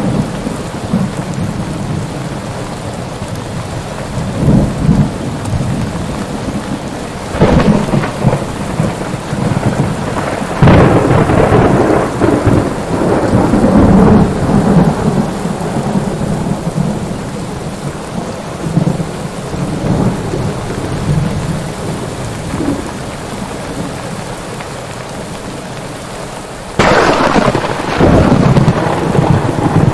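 Thunderstorm: steady rain with rolling thunder that swells twice in the first half, then a sudden loud thunderclap near the end that rumbles on.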